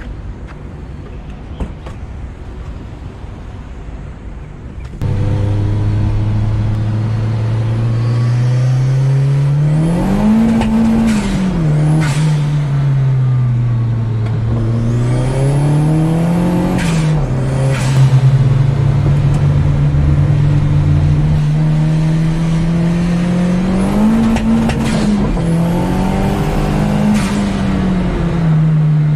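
Turbocharged car engine revved four times, its pitch rising and falling. Each time the throttle is let off after a rev, the turbo flutters with a brief chattering and a high chirp. It starts suddenly about five seconds in, after a quieter stretch of steady noise.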